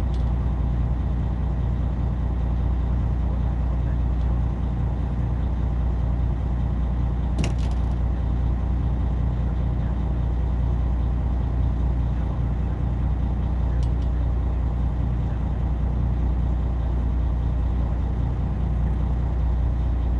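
A fishing boat's engine running steadily at idle: a low, even drone. A sharp click sounds about seven and a half seconds in.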